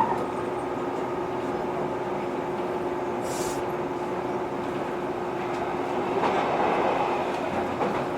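JR 115-series electric multiple unit running between stations, heard from inside the car: steady running noise from wheels and rails under a constant hum. A short hiss comes a little over three seconds in.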